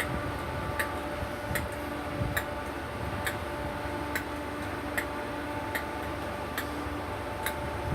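Regular sharp ticks, a little more than one a second, over a steady electrical hum.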